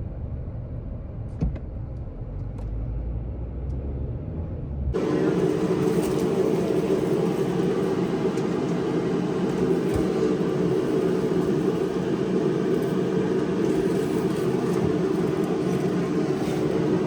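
Low, steady rumble of a car's cabin as it rolls along, cut off suddenly about five seconds in and replaced by a louder, steady noise.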